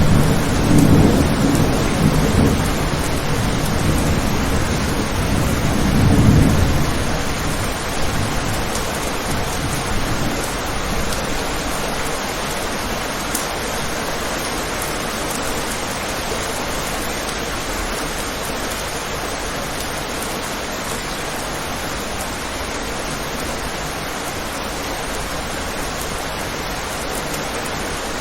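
Steady rain falling, with a roll of thunder rumbling low in the first several seconds, swelling once more and dying away. After that only the even hiss of the rain remains.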